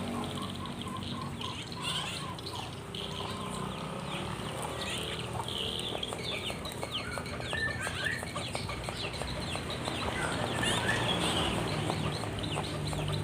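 Many birds chirping and calling at once, with chicken-like clucking among them, over a low steady hum.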